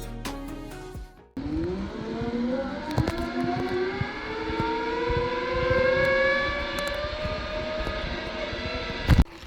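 Zip line trolley running down the steel cable, its pulleys whining in a tone that rises slowly as it picks up speed. Background music plays for about the first second. A sharp knock comes just before the end.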